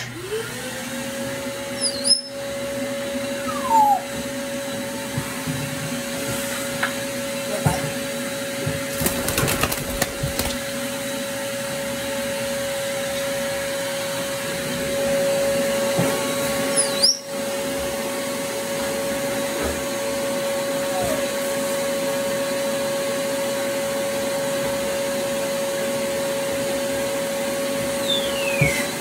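Vacuum cleaner switched on: the motor winds up to a steady whine and runs on with an even rush of suction. There is a brief burst of rattling and knocking about nine to ten seconds in, as debris is picked up.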